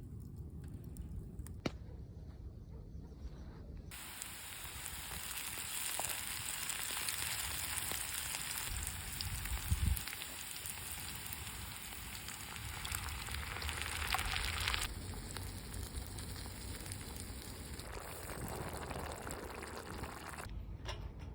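Food sizzling over a charcoal barbecue. The sizzle starts a few seconds in, is loudest for about ten seconds, then fades and stops shortly before the end, with a low thump about halfway through.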